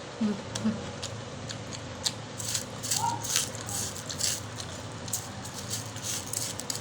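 Mango being chewed close to the microphone: a run of irregular, crisp crunches.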